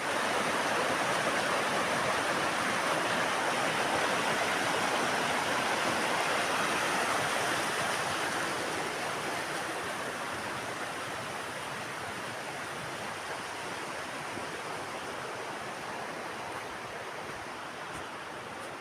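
A roaring mountain river rushing: a steady, dense noise of fast-flowing water that softens a little after about eight seconds.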